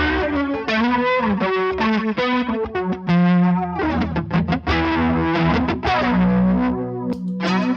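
Electric guitar played through the flanger preset of a Big Ear Pedals Albie multi-effect pedal, with a run of plucked notes and chords.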